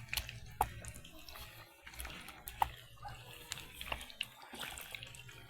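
Water splashing and running, with scattered sharp clicks and knocks, as in washing by hand in a basin or sink.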